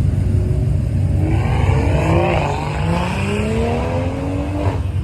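A car engine accelerating hard, its pitch climbing steadily for about three and a half seconds before cutting off suddenly near the end, over a steady low engine rumble.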